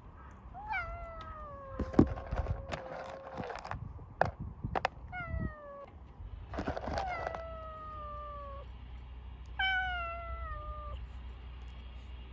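A cat meowing four times, each call falling in pitch, the first and third drawn out. Sharp knocks and clicks between about two and five seconds in, the loudest of them near the start of that stretch.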